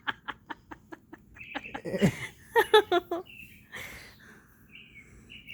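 Young cockatiel preening: a quick run of beak clicks for about the first second and a half, then short chirps and squawks.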